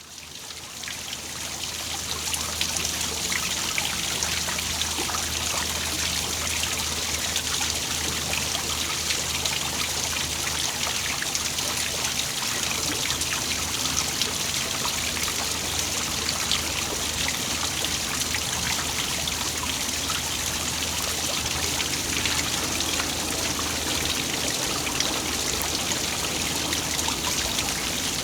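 Small waterfall splashing and trickling steadily, fading in over the first two seconds, with a faint low hum underneath.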